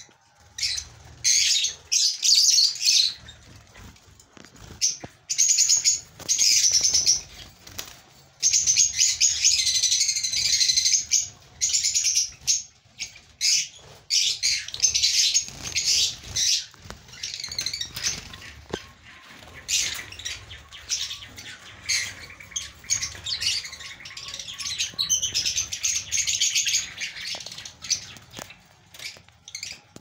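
Caged Java sparrows chirping in repeated loud bursts of shrill chatter, with wing flutters among them.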